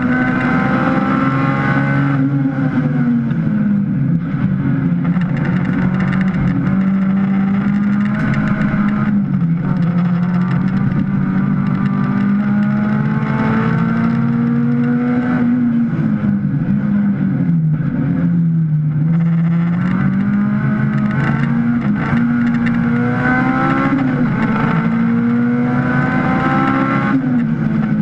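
Honda Civic race car's four-cylinder engine at racing speed, heard from inside the stripped cabin. The revs climb and fall again and again, sinking to their lowest about two-thirds of the way through before rising again.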